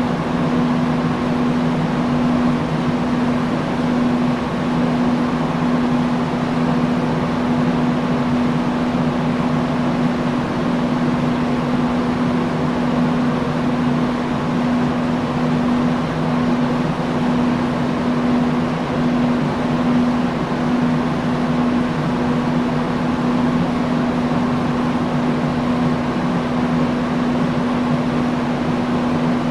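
Industrial fan running at constant speed: an even rush of moving air with a steady low hum from the motor.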